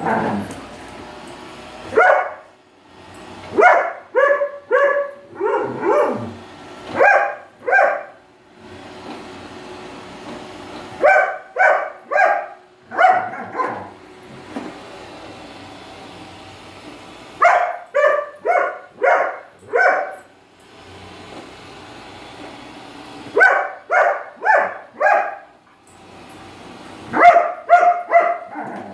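A dog barking at a robotic vacuum cleaner in quick volleys of a few sharp barks each, a few seconds apart. The vacuum's steady whirr can be heard in the pauses between volleys.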